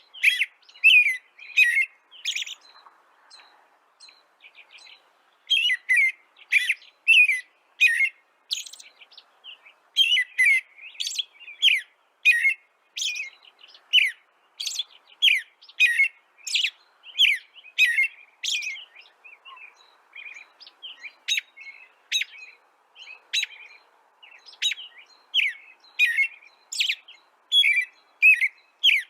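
Bird chirping: short, sharp chirps repeated about twice a second, with a pause of a few seconds near the start.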